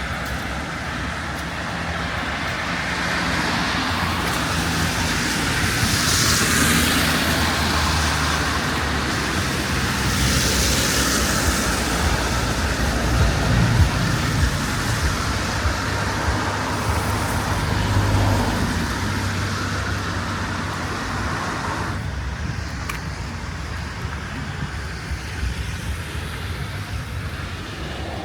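City street traffic: several cars pass one after another, each a swell of tyre hiss over a low engine rumble, thinning out after about 22 seconds.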